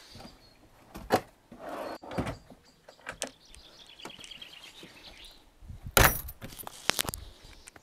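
A series of clicks and knocks, with two loud clunks about six and seven seconds in.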